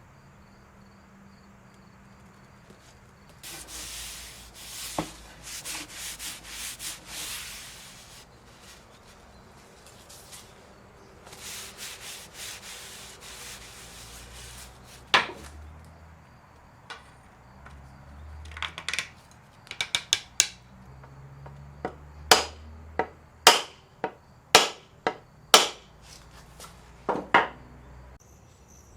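Sandpaper rubbing on a wooden tool handle in quick back-and-forth strokes, in two spells, followed by a series of sharp knocks.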